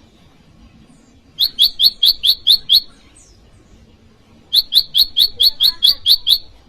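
Prenjak lumut (ciang-ciang) calling: two bursts of rapid, evenly repeated sharp notes, about five a second. The first burst is about a second and a half long, and the second, a little longer, comes about three seconds later. This is the male's challenging call used to provoke rival wild prenjak.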